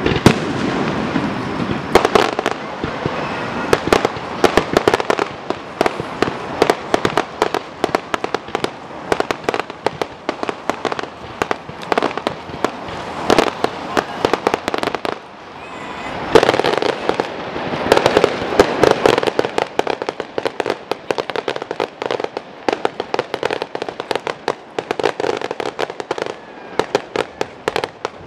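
Aerial fireworks going off overhead: a rapid, dense stream of sharp pops, crackles and bangs from bursting shells and crackling stars.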